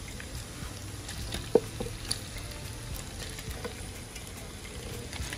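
Shrimp sizzling in bubbling garlic butter in a pan, with a few sharp clicks, the loudest about one and a half seconds in.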